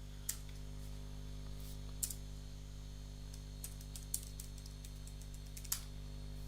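Steady low electrical hum with four sharp computer mouse clicks, spaced a second or two apart.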